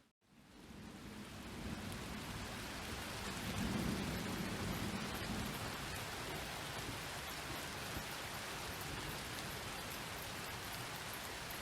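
Steady rain hiss of a thunderstorm, with a low roll of thunder swelling about four seconds in. The sound drops out briefly at the very start and fades back in.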